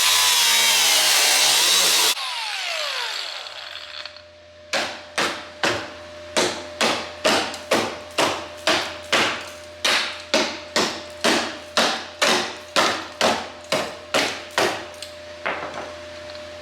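A power tool runs loudly, is switched off about two seconds in and winds down with a falling whine. After a short pause, a steady series of hammer blows follows, about two a second for some ten seconds, each ringing briefly.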